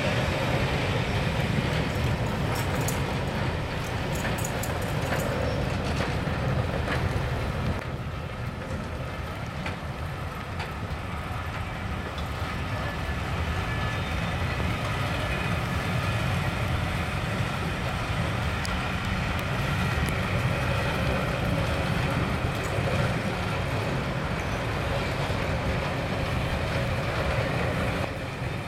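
Passenger coaches of a train rolling past close by: a steady rumble of wheels on the rails, with a few clicks over the rail joints.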